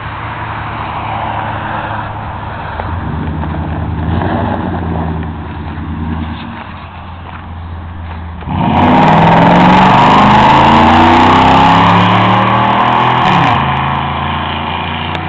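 2002 Dodge Ram 1500's 4.7-litre V8 through a glasspack exhaust, pulling away. The revs climb at first, then about eight and a half seconds in it turns suddenly much louder as it accelerates hard with rising pitch. Near the end the pitch drops and it quietens.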